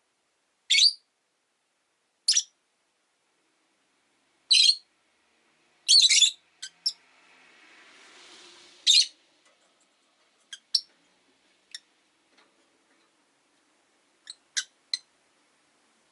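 Rosy-faced lovebirds calling: short, shrill screeches, about five loud ones a second or two apart, followed by softer, quicker chirps.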